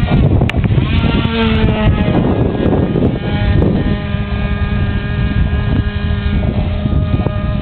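Model-airplane .46 glow engine of an RC trainer flying past: its buzzing note drops in pitch a second or two in as the plane passes, then holds a steady drone.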